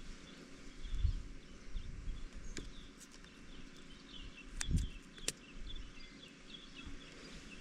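Small birds chirping repeatedly in the background, with two low thumps, one about a second in and one near five seconds in, and a few sharp clicks around the second thump.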